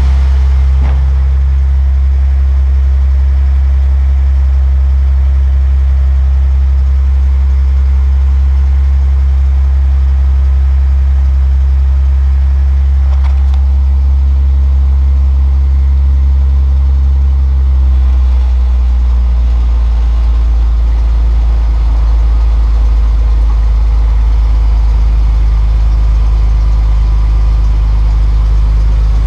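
Newly installed engine in a 1950 Dodge idling steadily on its first run. Past the middle the idle settles slightly lower.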